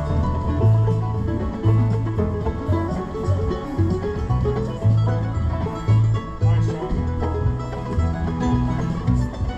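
Acoustic bluegrass band playing: banjo picking over guitar, with a steady run of low bass notes underneath.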